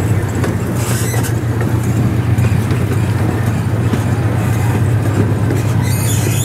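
Theme-park ride train running along its track: a steady low drone from the train, with the rumble of the cars over the rails. Brief high squeaks come in near the end.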